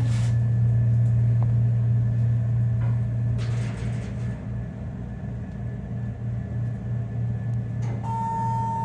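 Hydraulic elevator in motion, its pump motor giving a steady low hum. A steady high-pitched beep starts near the end.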